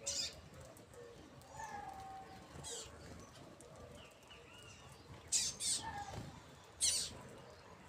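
Small birds chirping: short, sharp high chirps every second or two, two of them in quick succession partway through, with softer calls between.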